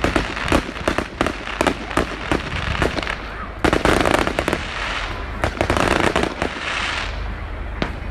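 Fireworks going off in quick succession: many sharp cracks and pops, with two longer spells of dense crackling about halfway through and near the end.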